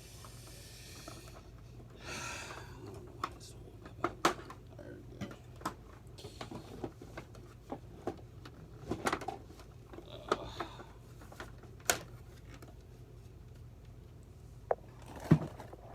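Scattered sharp clicks and knocks of plastic vacuum-cleaner parts being handled and pried apart during disassembly, with brief scraping near the start and about two seconds in, over a low steady hum.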